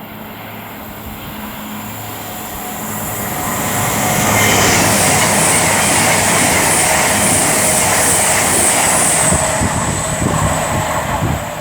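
Two coupled Avanti West Coast Class 221 Super Voyager diesel-electric units running through at speed without stopping. A low diesel drone builds into a loud rush of wheels on rail, with a high whine about four seconds in, then eases off near the end.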